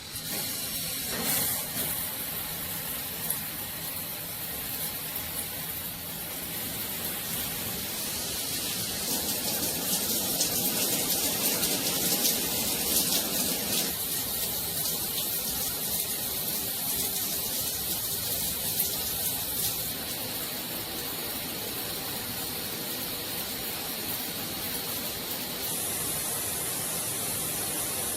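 Water spraying steadily from a 5-setting fixed rain shower head, a continuous hiss.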